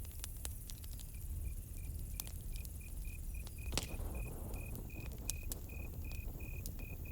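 Campfire crackling with scattered sharp pops, the loudest about four seconds in, over a low rumble. From about a second in a cricket chirps steadily, about three chirps a second.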